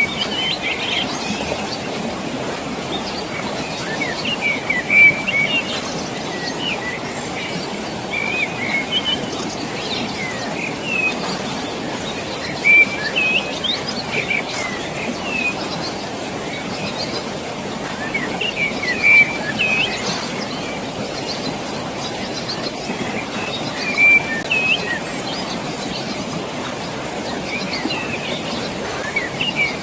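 Small birds chirping in short bursts every few seconds over a steady rush of water.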